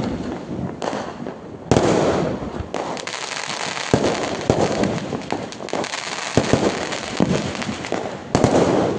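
Firecrackers going off in rapid succession: a dense crackle of many sharp pops, with louder bangs about two seconds in and again near the end.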